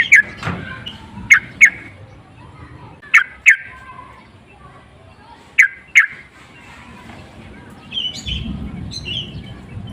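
Yellow-vented bulbul calling: sharp, loud notes in pairs, three pairs a couple of seconds apart, between bursts of its chattering song.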